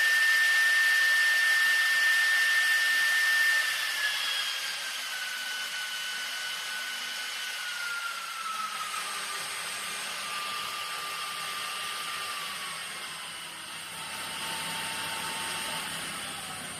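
CNC router spindle motor running at high speed with a steady high whine, then stepping down in pitch several times from about four seconds in as its speed is lowered step by step.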